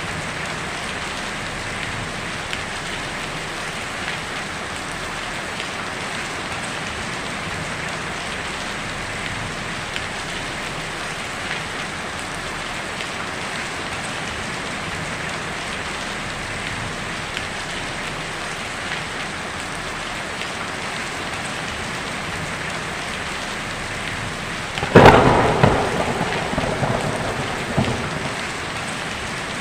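Heavy rain drumming steadily on a tin roof. About 25 seconds in, a sharp thunderclap breaks out, the loudest sound by far, and rumbles away over a few seconds.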